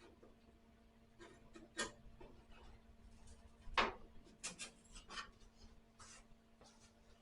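Faint scraping and clicking of a small bent screwdriver levering a cut sheet-metal panel apart to open a gap before welding, with a sharper click about four seconds in.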